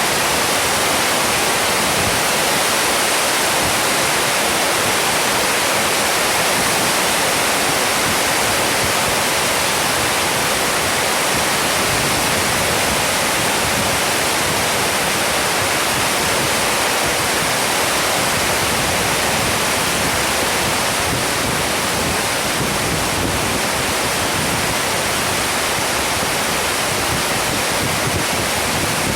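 Heavy rain falling steadily, a dense even hiss with no thunder or other sudden sounds.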